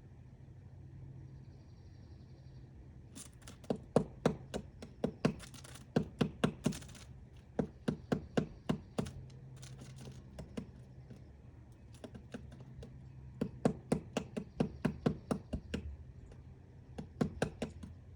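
Woodpecker chiselling at wood while excavating its nest hole: bouts of sharp pecks, about three a second, with pauses between bouts. It is quiet for the first few seconds.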